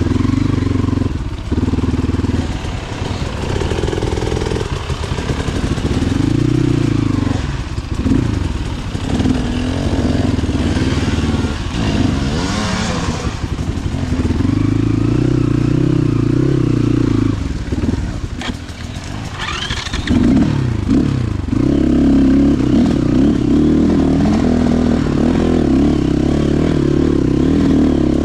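Motorcycle engine running and being revved, its pitch rising and falling again and again, then running steadier at higher revs over the last several seconds.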